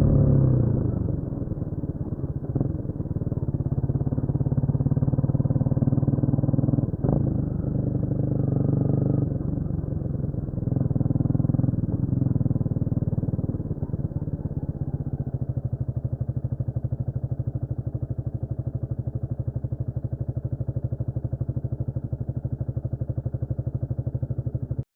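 Honda CMX250 Rebel's single-cylinder engine running, its note rising and falling through the first half with one sharp click about seven seconds in, then settling to a steady, even beat.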